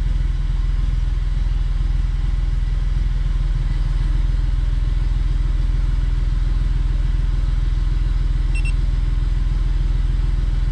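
Smart Fortwo's three-cylinder engine idling steadily at about 800 rpm. A short electronic beep sounds once near the end.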